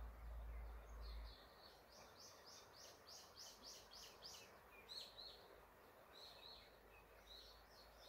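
A songbird singing a quick run of repeated high notes, about three a second, that starts about a second in and lasts a few seconds, then a few scattered short chirps. A faint steady rush, likely the nearby river, runs underneath, and there is a low rumble during the first second.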